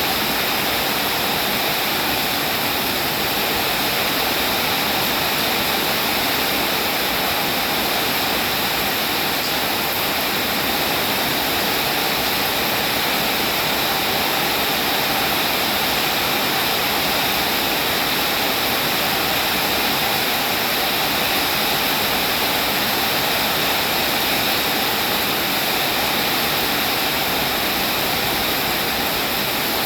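Rain falling steadily: a dense, even hiss with no single drops, gusts or changes in level standing out.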